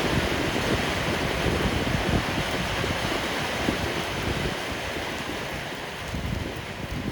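Rain and wind in a storm: a steady rushing noise with low rumbling underneath that slowly fades.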